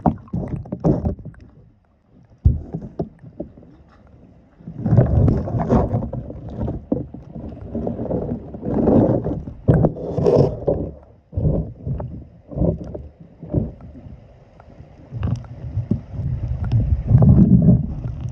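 River water splashing and sloshing in irregular bursts as the coho salmon is let go in the shallows.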